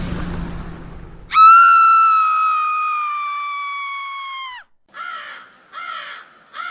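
A steady noisy rumble fades out. Then a bird gives one loud, clear, long call lasting about three seconds, sinking slightly in pitch, followed by three short harsh calls.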